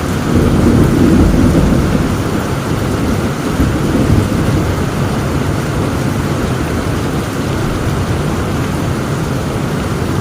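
Heavy rain falling steadily, with a low roll of thunder swelling in the first couple of seconds and a smaller rumble about four seconds in.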